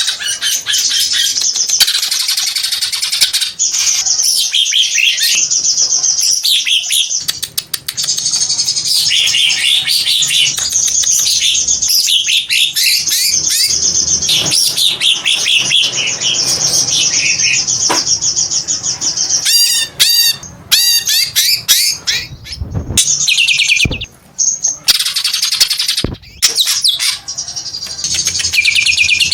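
Green leafbird (cucak hijau) singing a long, fast run of high chirps, whistles and trills, with a few short breaks in the second half.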